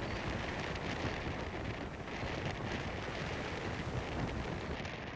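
Strong typhoon wind buffeting a GoPro's microphone in a steady, dense rumble, mixed with the rush of water under a planing windsurf board.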